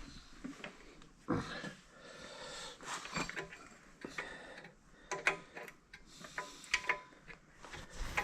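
Irregular clicks, knocks and scrapes of hand work on heavy metal parts as a corn head component is worked onto its spline.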